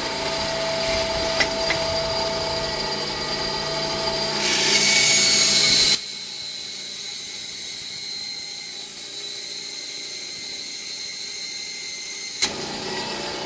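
Delta 28-180 bench band saw's 1/5 HP motor running steadily while the blade cuts a 1.25-inch piece of beechwood, with a louder hiss of the blade in the wood a little after four seconds in. About six seconds in the sound drops abruptly to a quieter steady hum, and there is a click near the end.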